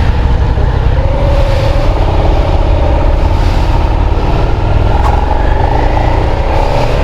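Suzuki SV650 V-twin motorcycle being ridden, its engine note climbing slightly in pitch under heavy wind rumble on the helmet microphone.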